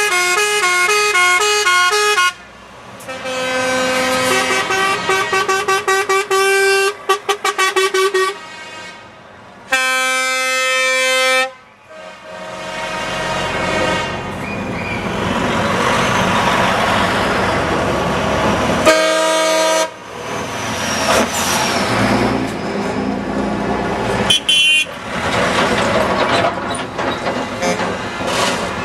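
Truck horns sounding again and again: a horn alternating between two notes, held blasts that break into a run of quick short toots, and a long steady air-horn blast. Between the horns, diesel truck engines and road noise run, with a few more short blasts near the end.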